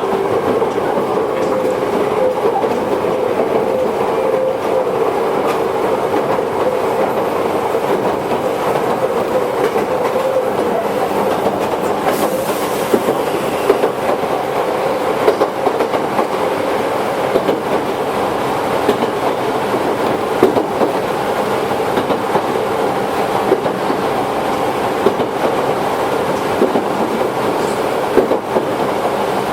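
Toyohashi Railway 1800 series electric train (ex-Tokyu car) running along the line with a steady rumble of wheels on rail and scattered clicks over rail joints. A steady tone sounds at first and fades out over the first several seconds.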